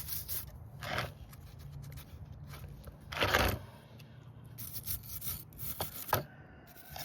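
Wire brush scrubbing chainsaw parts in quick scratchy strokes, brushing off what is probably corrosion. A heavier scrape comes about halfway through.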